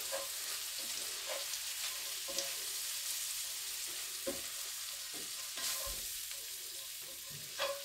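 Chopped onions, butter and flour sizzling in a skillet as they are stirred together with a spatula, with a handful of short scrapes of the spatula against the pan. The flour is being cooked into the butter and onions as the start of a gravy roux.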